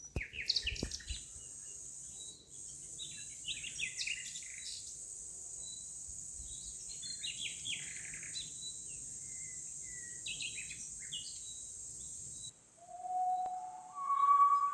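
Songbirds chirping over a steady high hiss, which cuts off suddenly near the end; a clear whistled tune then starts, holding single notes that step upward in pitch.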